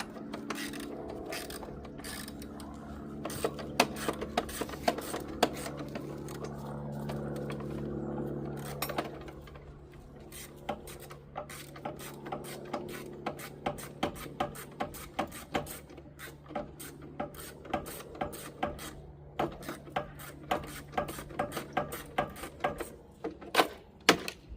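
Ratchet spanner clicking in repeated strokes as bolts are undone, the clicks coming in a fairly even run of a few a second in the second half, over a steady hum.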